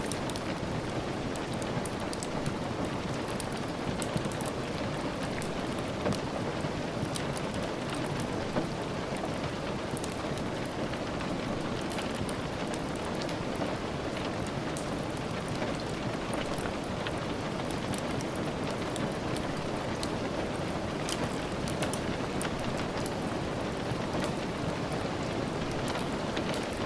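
Steady rain, an even hiss with no let-up, dotted throughout with scattered sharp ticks and pops, as from the soft crackle of a wood fire mixed in.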